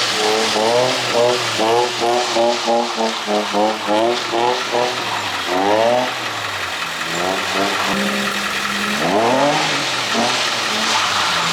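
A car engine revving hard in quick repeated blips for the first few seconds, then climbing in two longer pulls about halfway and near the end, over a steady hiss.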